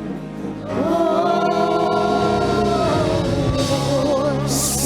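Gospel worship song: a voice rises into a long held note about a second in, which wavers with vibrato before tailing off, over a steady accompaniment. A burst of hiss comes near the end.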